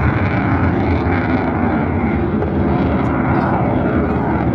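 Eurofighter Typhoon fighter's twin EJ200 jet engines at full power, throttles slammed forward: loud, steady jet noise.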